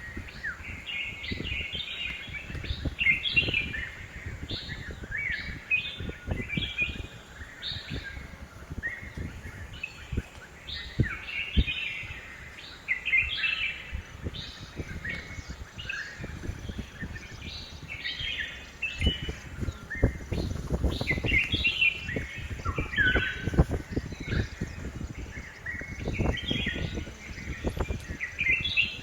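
Red-whiskered bulbuls calling: short, bright chirping phrases repeated every second or so, over low rumbling thumps.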